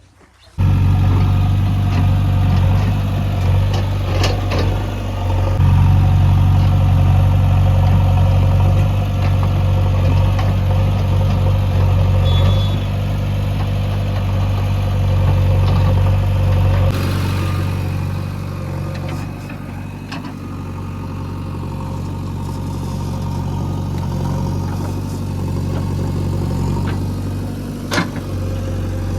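A heavy diesel engine running steadily at close range, with a deep, even hum and occasional clanks. About 17 seconds in the sound changes and the deep hum eases, and a sharp knock comes near the end.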